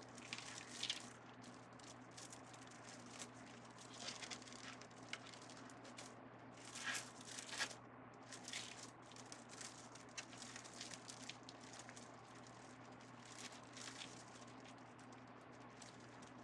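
Faint, scattered rustling and crinkling of deco mesh being handled and folded by hand, with a steady low hum underneath.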